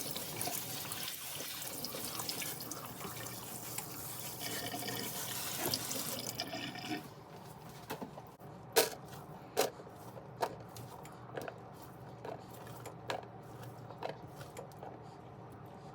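Kitchen tap running water into a sink, shut off about seven seconds in. Scattered light knocks and clinks follow, as of containers being handled.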